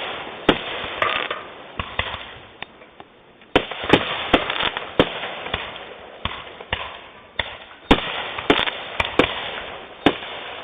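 Consumer aerial fireworks bursting in a rapid series of sharp bangs, with a short lull about two to three seconds in.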